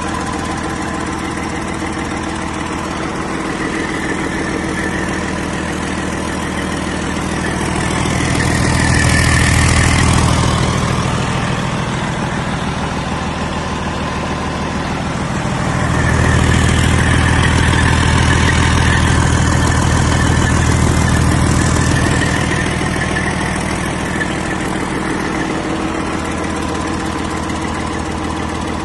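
2006 Detroit Diesel Series 60 14.0L inline-six diesel engine idling on a test run. It is revved up twice, briefly about a third of the way in and then held for several seconds past the middle, before settling back to idle.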